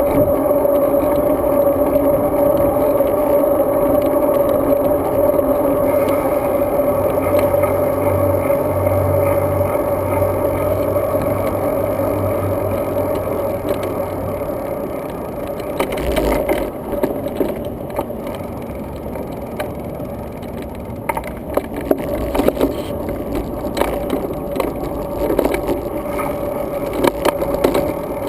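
Steady wind and tyre noise from a road bike in motion, picked up by a GoPro Hero 2 riding along. A low hum sits under it for several seconds in the middle, and from about halfway on a run of rattles and knocks comes through, as from bumps in the riding surface.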